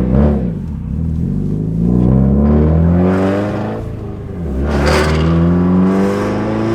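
Straight-piped turbocharged Subaru WRX STI flat-four exhaust under hard acceleration: the engine note climbs steadily, drops at a gear change about four seconds in, then climbs again.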